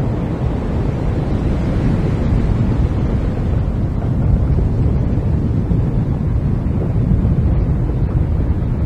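Glacier ice front calving and breaking apart: a steady, deep rumble that carries on without a break, mixed with wind on the microphone.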